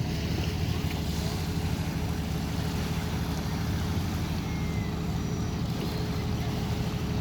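Boat engine running steadily: a constant low drone with a thin steady whine above it.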